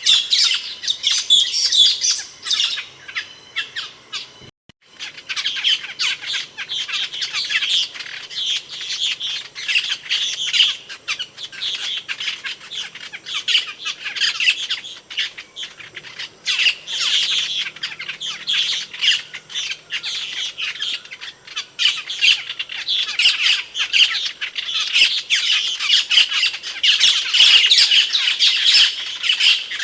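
Asian glossy starling calling: a dense, unbroken stream of loud, sharp, high chattering calls, with a brief break about four and a half seconds in.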